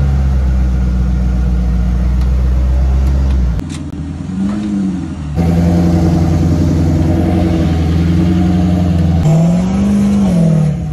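LS V8 engine in a Jeep TJ running hard on the throttle at steady revs for a few seconds. It eases off, blips up and down once, holds high again for several seconds, then its revs rise and fall once more near the end.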